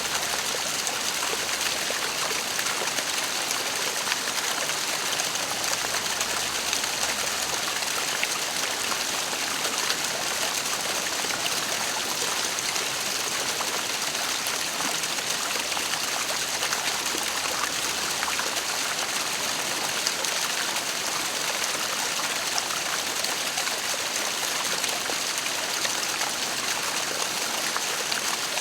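Waterfall: falling water making a steady, even rushing hiss with no change.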